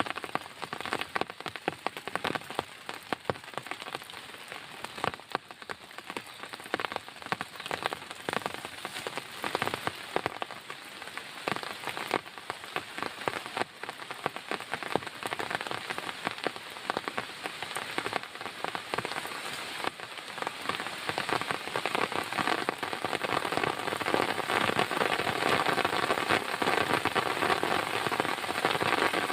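Heavy rain falling, with close drops ticking densely on a surface over a steady hiss. It grows louder and heavier over the last ten seconds or so.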